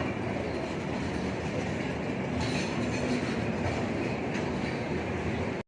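Steady running noise of a train at a railway station.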